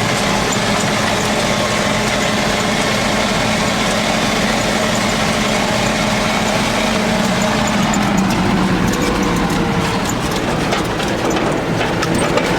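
ZIL-131 army truck's petrol V8 engine running steadily; its note shifts about eight seconds in.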